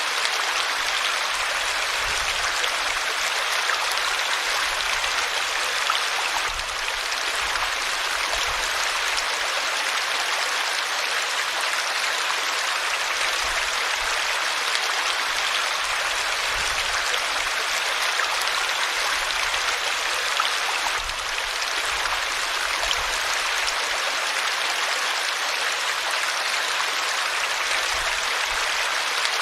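River water flowing: a steady, even rushing that holds its level throughout, with two slight dips in loudness, one a little before the quarter mark and one about two-thirds of the way through.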